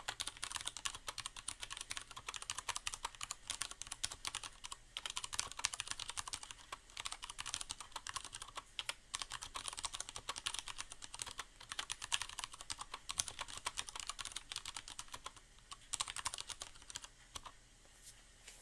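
Fast, steady typing on a Leopold FC750R mechanical keyboard with Cherry MX Brown switches and a sound-dampening pad inside the case: a dense run of key clicks with a few short pauses, stopping shortly before the end.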